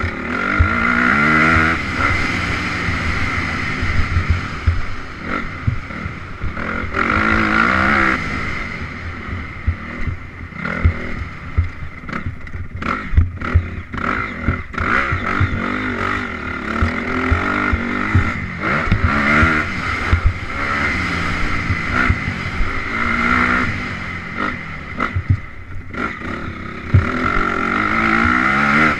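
Honda CRF 250R single-cylinder four-stroke dirt bike engine being ridden hard, revving up and dropping back over and over as the rider accelerates and shifts. Short low knocks and thumps run throughout.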